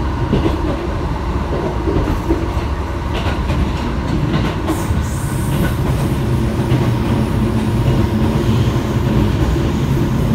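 Passenger train running, heard from inside the carriage: a steady rumble of wheels on rail with a low hum and the odd rail-joint click. A brief hiss about five seconds in.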